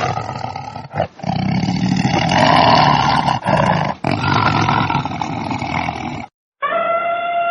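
Animal calls in quick succession: loud, rough roaring cries broken by abrupt cuts, then one clearer pitched call that drops in pitch at its end.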